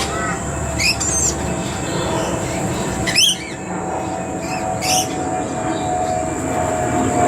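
Birds giving short chirping calls that glide up and down, about a second, three seconds and five seconds in. Under them runs a steady drone with a mid-pitched tone that grows louder near the end.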